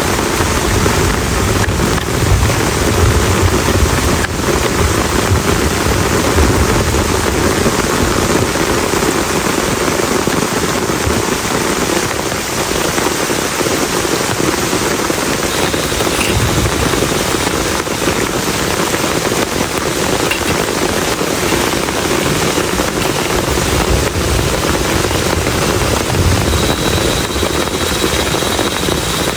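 Heavy rain pouring steadily, a dense even hiss with low rumbles rising now and then beneath it.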